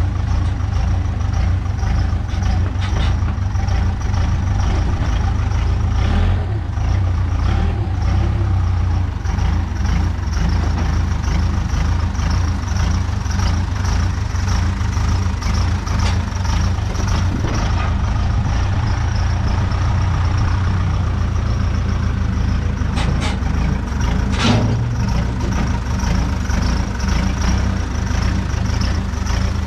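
Case 580K backhoe's diesel engine running steadily under work, with a few short knocks about two-thirds of the way in.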